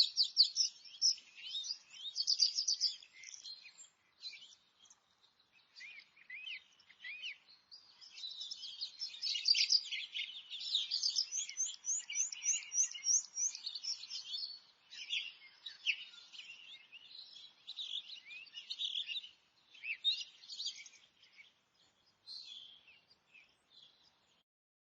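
Several forest birds singing together, quick high chirps and trills overlapping one another; the chorus thins out and stops near the end.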